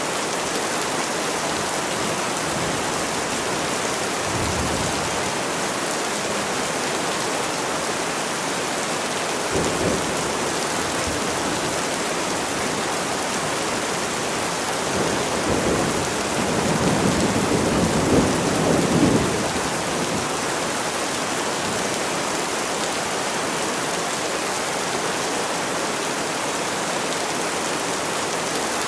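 Steady heavy rain, with low rolling rumbles of thunder: a short one about four seconds in, another near ten seconds, and a longer one past the middle lasting about five seconds.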